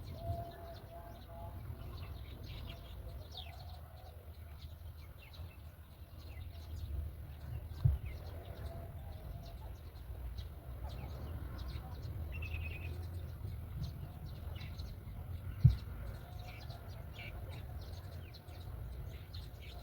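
Birds chirping in many short, high notes over a steady low rumble, with two sharp thumps, about eight and sixteen seconds in.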